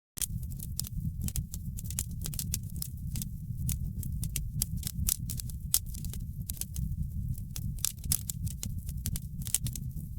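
Wood fire in a fireplace crackling: many irregular sharp pops and snaps over a steady low rumble of the flames. It cuts in abruptly right at the start.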